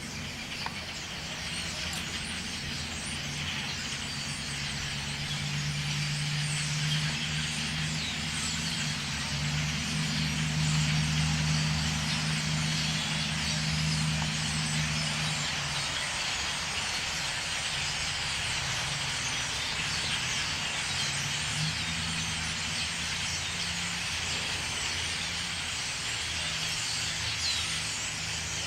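A large flock of birds calling all at once, a dense chatter of many overlapping chirps. Beneath it runs a steady low hum, stronger through the first half and dropping back about halfway through.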